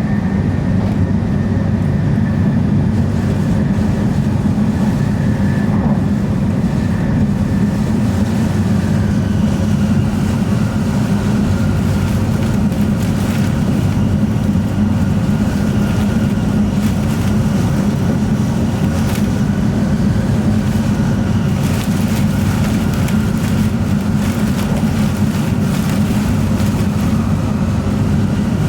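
Tokaido Shinkansen bullet train running at speed, heard inside the passenger cabin: a steady low drone with a faint whine above it, and scattered light ticks from about ten seconds in.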